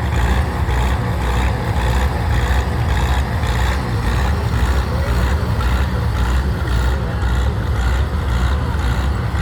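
Oliver 66 tractor engine running hard under load while pulling the weighted sled, a steady low engine drone.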